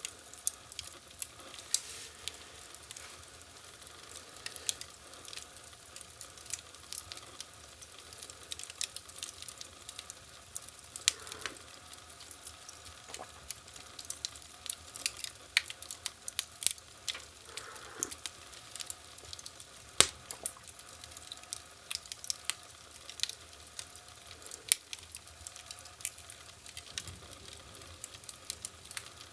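Wood fire burning in a fireplace, crackling with irregular sharp pops and snaps over a faint steady hiss, with one louder pop about twenty seconds in.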